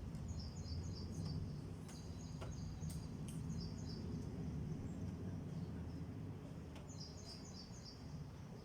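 A small bird chirping in three quick runs of high notes, over a steady low background hum, with a few faint clicks.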